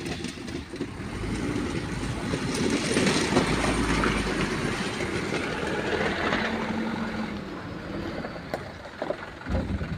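Truck driving over thick loose gravel and rocks: engine rumble with crunching, rattling stones and tyres, building to a peak a few seconds in and then fading.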